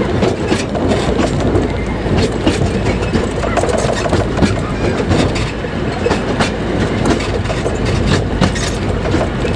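A 2 ft narrow-gauge train running along the track: a steady rumble of wheels on rails with frequent clicks and clatter from the wheels over the rail joints.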